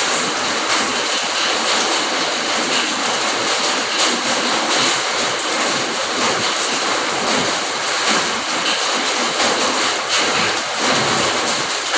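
Steady rain falling, a dense even hiss with many small drop strikes through it.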